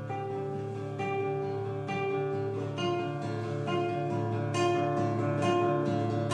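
Acoustic guitar playing slow plucked and strummed notes, a few notes sounding at a time and changing about once a second.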